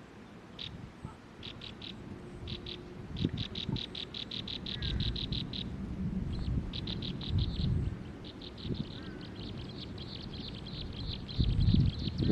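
Small bird giving rapid runs of short, high chirps, about eight a second, in several bursts that run longer toward the end, over low rumbling noise.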